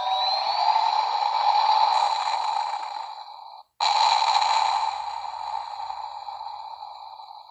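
Electronic Millennium Falcon spaceship sound effect played through a toy's small built-in speaker: a rushing hiss with a rising whine that cuts off abruptly just before four seconds in, then a second burst that slowly fades.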